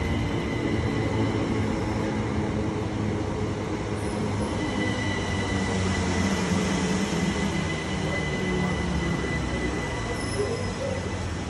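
Southeastern electric multiple-unit train pulling into the platform and slowing, with a continuous rumble from its running gear. A thin steady high-pitched squeal grows stronger midway as it slows.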